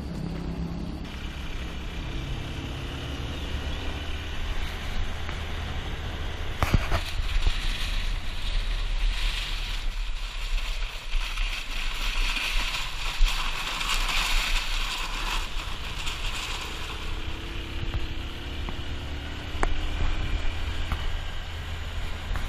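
Motorbike engine running on the move, mixed with a steady rush of wind on the microphone and a low rumble, with a sharp click about seven seconds in.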